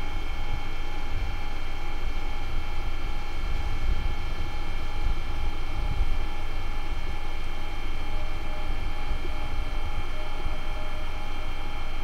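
ICE train pulling away from the platform: a steady low rumble with a constant whine of several tones above it.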